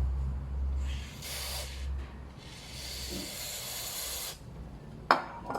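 Aerosol electronic contact cleaner hissing as it is sprayed into an amplifier's volume control potentiometer to clean out its crackling, in two bursts: a short one, then a longer one of about two seconds. A sharp click near the end.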